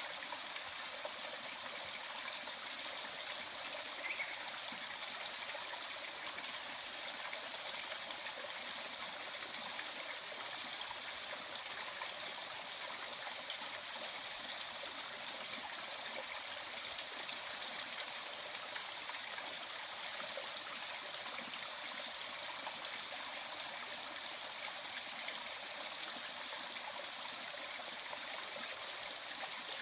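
Mountain valley stream flowing steadily, an even rush of running water.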